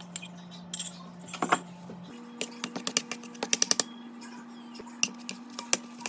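A cooking utensil clinking and tapping against a frying pan while beaten eggs are stirred and fried. The clicks come in quick runs, about halfway through and again near the end, over a faint steady hum.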